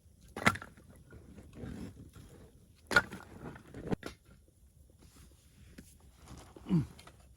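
Person eating ramen noodles: sharp noisy slurps about half a second and three seconds in, a few smaller eating sounds around four seconds, and a short low grunt that falls in pitch near the end.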